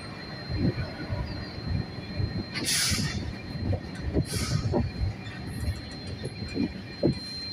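Passenger train running along the track, heard from aboard the coach: a steady rumble with irregular wheel knocks over rail joints and points, and two short hissing screeches about 3 and 4.5 seconds in.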